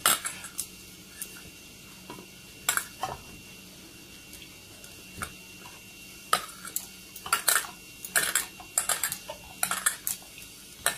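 Irregular sharp clinks and knocks of a mixing bowl and kitchen utensils while stiff flour dough is kneaded by hand in the bowl. The clinks come in quick clusters, more often in the second half.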